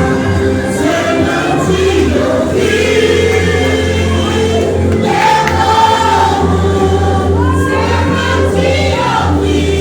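Gospel vocal group singing together over instrumental backing with a steady, sustained bass.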